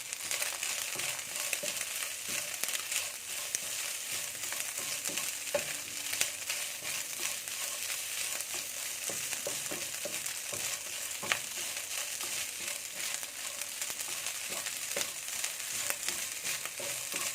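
Diced chicken breast with chopped garlic and black pepper frying in oil in a pan, sizzling steadily. It is stirred, with occasional sharp clicks of a utensil against the pan.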